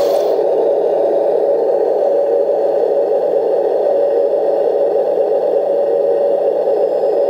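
RC model Leopard tank's electric drive motor and transmission running at a steady speed, an even drone with one constant tone through it.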